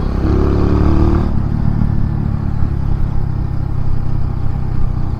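Kawasaki W175's single-cylinder engine, breathing through a 30 mm flat-slide carburettor, pulling hard for about the first second and then easing back to a steady drone while riding.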